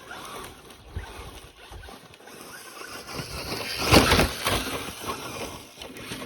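Traxxas Slash 4x4 radio-controlled truck driving over forest ground: an irregular scrabbling and crunching of tyres and chassis, with a louder burst about four seconds in.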